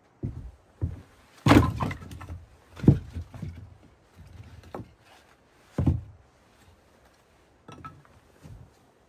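A series of irregular knocks and thumps, about nine in all, some with a short clatter after them; the loudest comes about one and a half seconds in and another about three seconds in.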